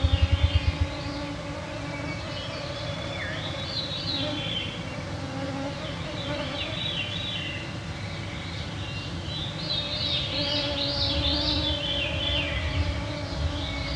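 Mosquitoes whining steadily close to the microphones, with several songbird phrases in the background. A rapid low throbbing is heard in the first second, then stops.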